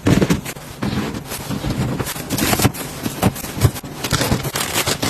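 Food items and storage boxes being handled and set into a refrigerator: irregular clacks, knocks and scrapes with rustling of packaging between them.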